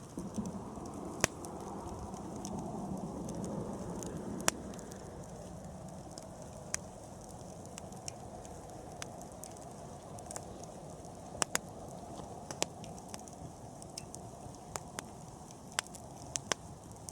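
Bonfire burning: a steady low rush of flames with sharp crackles and pops scattered irregularly throughout.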